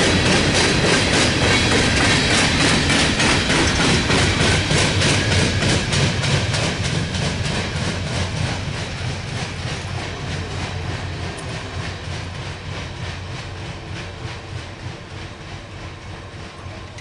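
Empty gypsum hopper cars rolling past, their wheels clicking rhythmically over the rail joints. From about six seconds in, the clatter fades steadily as the end of the train moves away.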